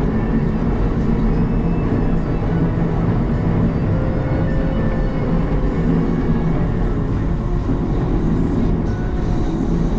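CAT 906 compact wheel loader's diesel engine running steadily while plowing snow, its note rising slightly near the end.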